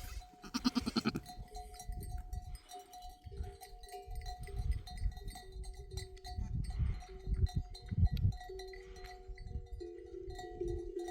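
A goat bleats once about half a second in. It is followed by livestock bells and soft background music whose stepping notes grow fuller near the end.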